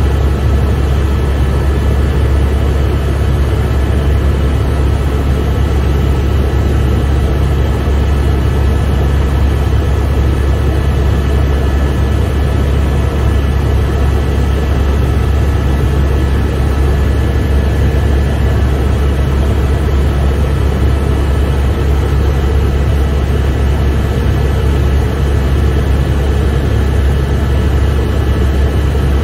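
Helicopter in flight heard from inside the cabin: a loud, steady drone of the rotor and engine, with thin steady whining tones above it.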